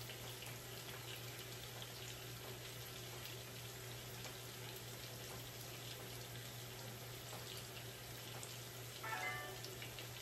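Potatoes frying in butter and bacon fat in a skillet: a steady, even sizzle over a constant low hum.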